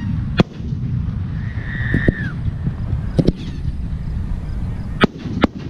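Aerial firework shells bursting: sharp bangs about half a second in, two around two seconds, two around three seconds and two more near the end, over a steady low rumble. A short high falling tone sounds about two seconds in.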